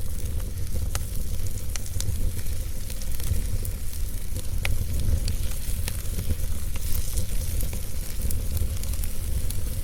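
Fire crackling, with frequent irregular sharp pops and snaps over a steady hiss and a low rumble.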